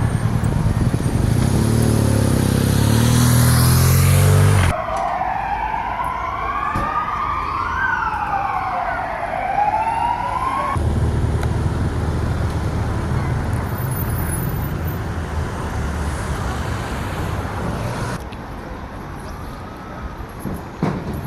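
Street sound in a few abrupt cuts: low traffic rumble, then an emergency-vehicle siren wailing up and down for about six seconds, then traffic rumble again, dropping to quieter street ambience near the end.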